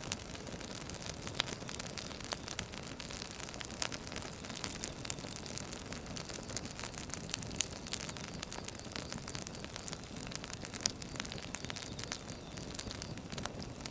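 Firewood burning: a steady soft hiss with frequent irregular crackles and pops, a few of them sharper and louder.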